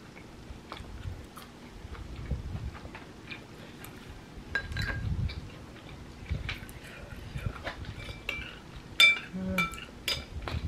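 Close-up chewing of chewy Korean rice cakes (tteokbokki), soft and repeated. Near the end a spoon clinks and scrapes several times against the ceramic bowl.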